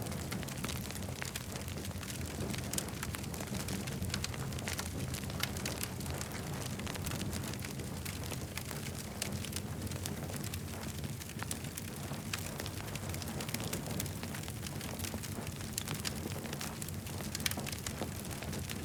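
Campfire crackling steadily, with many sharp pops and snaps of burning wood over a low, steady rumble.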